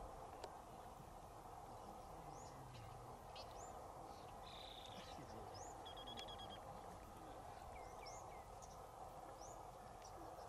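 Faint bird calls outdoors: about a dozen short, quick rising chirps scattered throughout, with a couple of brief trills near the middle, over a steady background hiss.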